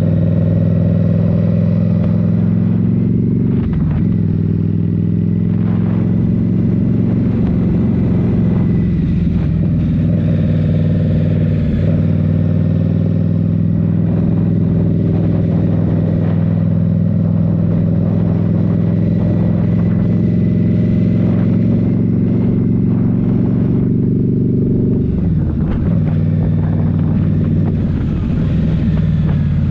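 Indian Scout Rogue's 69 cu-in V-twin with a Rinehart slip-on exhaust running steadily under way. The engine note wavers briefly about four seconds in and settles lower near the end.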